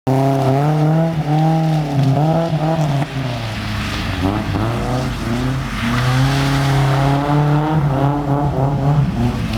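Nissan 240SX engine revving up and down repeatedly while the car is drifted on a wet road, its pitch swinging in quick rises and falls.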